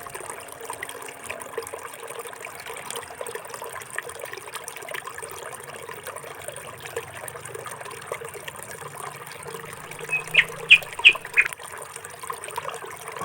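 Steady trickle of running water, with a bird chirping five times in quick short calls near the end.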